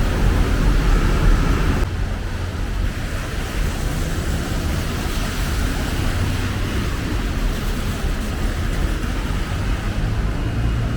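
Steady city road traffic noise with a deep low rumble of passing vehicles; the upper hiss eases slightly about two seconds in.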